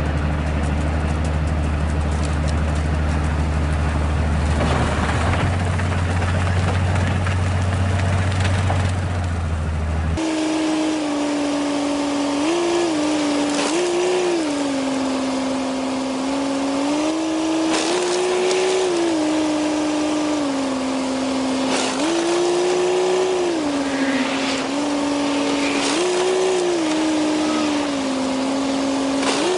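Engine running with a steady low drone. After an abrupt change about ten seconds in, an engine note rises and falls in pitch again and again, as with repeated throttle changes.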